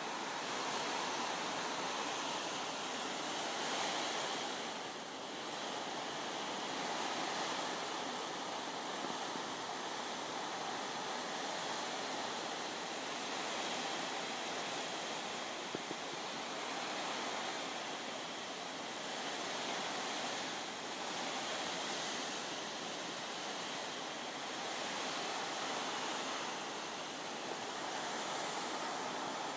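Storm: a steady rush of wind and rain that swells and eases every few seconds.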